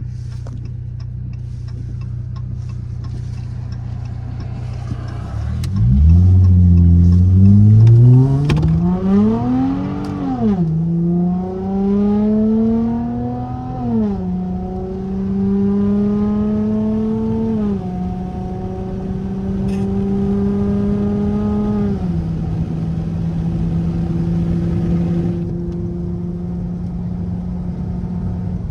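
Straight-piped car engine idling, then revving hard as the car accelerates away. The engine pitch climbs and drops back at each of three upshifts, then settles into a steady cruise.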